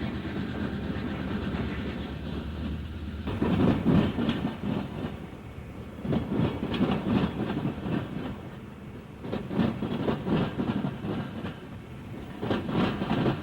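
A train's wheels rolling by, clattering over rail joints in bunches of clicks every two to three seconds, after a steady low rumble in the first few seconds.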